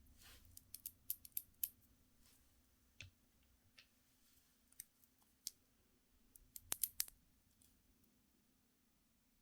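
Quiet, scattered small clicks and taps from handling nail gel pots and tools, with a quick run of clicks in the first two seconds and another just before the end.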